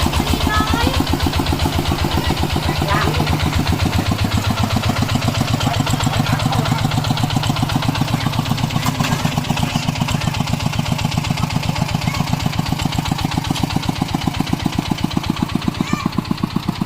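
Two-wheel walking tractor's engine running steadily with an even, rapid chugging of about ten beats a second, easing slightly in level near the end.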